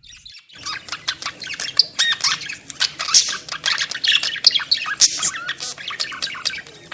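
A group of lovebirds chattering: a busy, unbroken stream of rapid high chirps and squawks that starts about half a second in.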